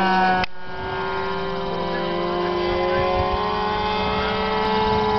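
Propeller aircraft engine running steadily, its pitch rising slowly. There is a sharp click about half a second in, after which it is slightly quieter.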